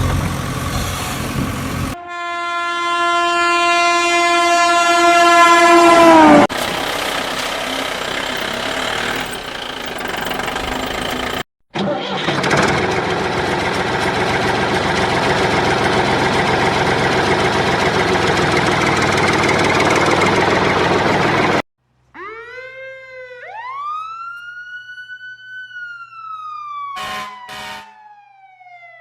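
A string of vehicle sound effects: engine rumble, a high whine that holds and then drops away, a long stretch of steady engine noise, then a wailing siren that rises and slowly falls, repeating near the end.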